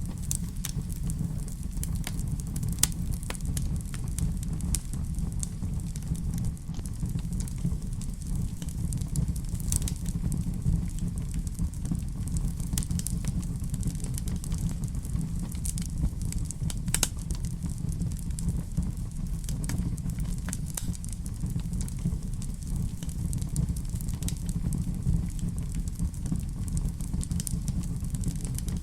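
Wood fire crackling in a fireplace: a steady low rumble of flame with scattered sharp pops and snaps at irregular intervals.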